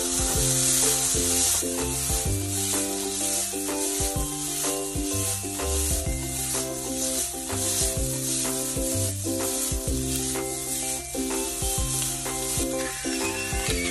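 Pork, onion and green pepper sizzling in a frying pan as they are stir-fried, with the clicks and scrapes of a silicone spatula stirring against the pan, over background music.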